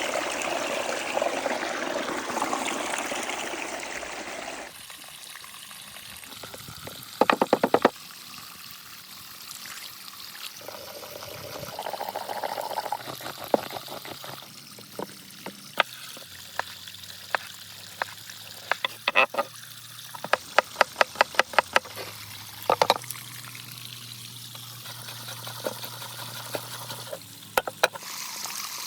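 Water pouring and trickling, loudest in the first few seconds, then a quieter background broken by several quick runs of sharp taps and clicks.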